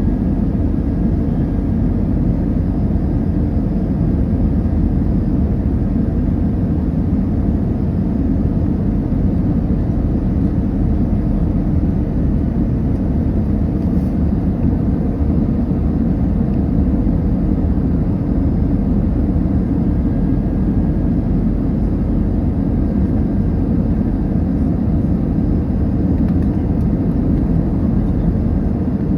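Steady low rumble of an Airbus A319 heard from inside the passenger cabin: engine and airflow noise with no change or sudden event.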